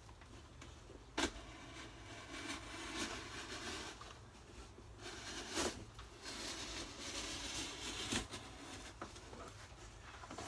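Packaging being handled: stretches of rustling and scraping of cardboard and packing material, broken by three sharp knocks.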